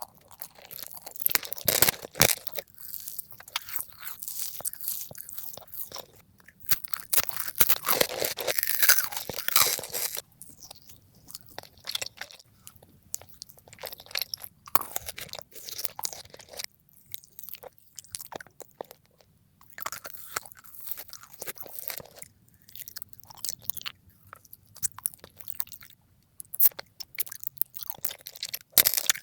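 Close-miked crunching and chewing of crisp food, played sped up: dense runs of crackling bites with short quieter pauses between them.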